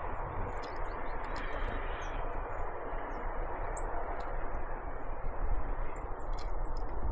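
Great tits and blue tits giving short, high chirps and calls over a steady rushing background noise that eases slightly toward the end.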